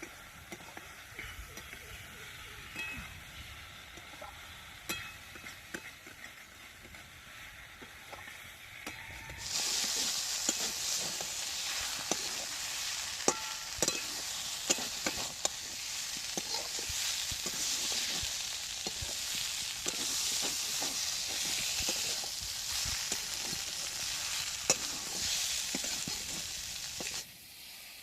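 Food frying in hot oil in a pan while being stirred with a spatula. The frying is quiet at first, then a loud sizzle starts suddenly about a third of the way in and stops abruptly near the end, with sharp scraping clicks throughout.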